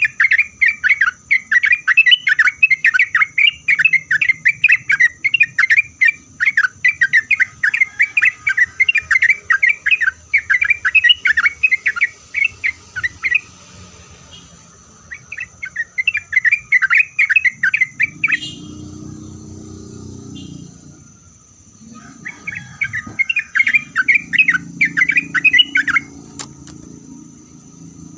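Yellow-vented bulbul (trucukan) singing a fast, chattering song of many quick notes in three long bouts, with short pauses. A low rumble is heard in the later gaps.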